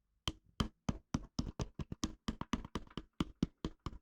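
Quick, even, light taps, about five a second, of a makeshift tool driving a part home on the engine, standing in for the proper special installation tool.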